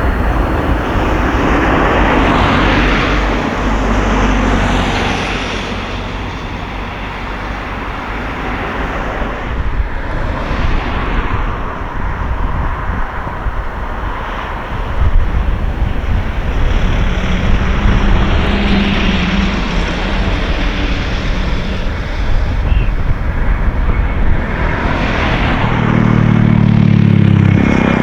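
Jet airliner engine noise at an airport, rising and falling over many seconds as the aircraft moves. Near the end a lower, steady pitched engine hum comes in.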